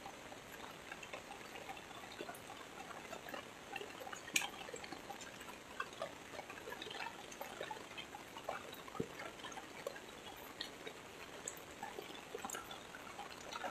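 Heavy rain falling: a steady hiss with many small, scattered drop ticks close by, one sharper tick about four seconds in.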